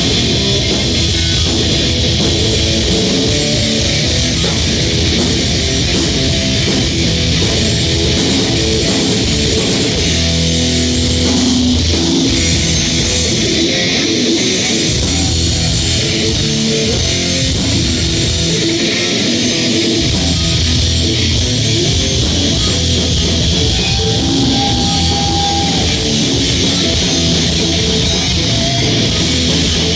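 Live crossover thrash band playing loud: distorted electric guitar riffing over bass guitar and drum kit. The deep low end drops out briefly twice midway.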